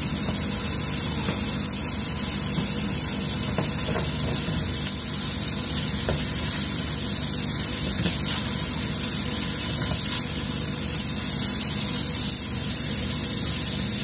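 Cauliflower, egg and cheese sizzling steadily in a nonstick frying pan, with a spatula stirring and scraping the pan now and then.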